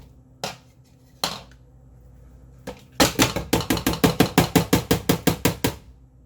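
A kitchen utensil knocking on a hard surface: a few single knocks, then a quick even run of about twenty strikes at roughly seven a second for nearly three seconds.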